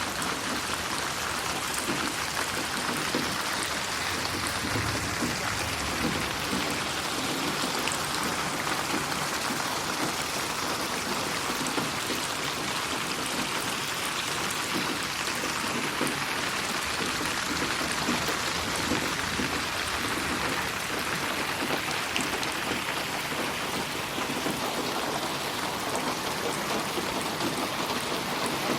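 Steady rain falling, an even hiss with fine scattered drop ticks, processed as 8D audio so it pans around the listener.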